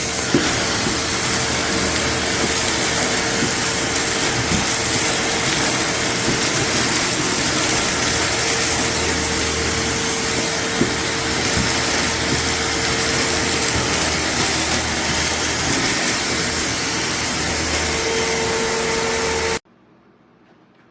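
DEWALT DXV06P 6-gallon wet/dry shop vacuum running: a loud, steady motor whine over a wide rushing noise, stopping suddenly near the end.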